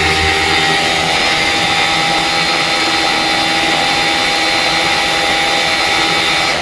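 Vittorazi ATOM 80 two-stroke paramotor engine with a tuned expansion chamber exhaust, running flat out with its propeller and holding a steady high pitch of about 9,700 rpm. Near the end the throttle is closed and the pitch starts to fall.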